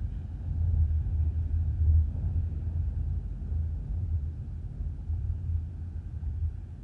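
Strong typhoon wind buffeting the microphone as a low, gusting rumble that swells and eases.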